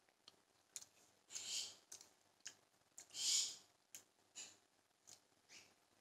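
A person chewing a mouthful of spaghetti: soft, wet mouth clicks and smacks scattered throughout, with two breaths out through the nose about a second and a half and three seconds in.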